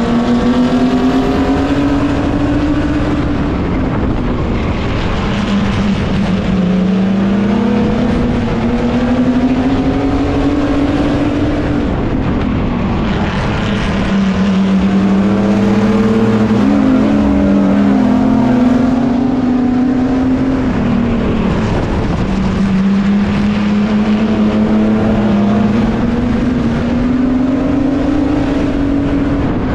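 Mini truck's engine running hard during a race, heard from the truck's roof. Its pitch climbs steadily for several seconds and then drops back, over and over, about every seven or eight seconds, as the throttle is held and then lifted.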